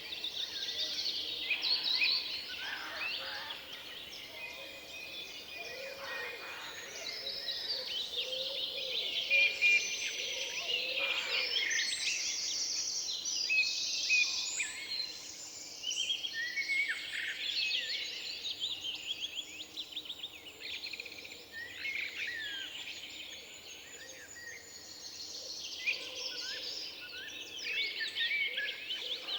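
Several songbirds singing and calling over one another, with many quick high chirps and trills and a few lower calls. A faint steady background noise runs underneath.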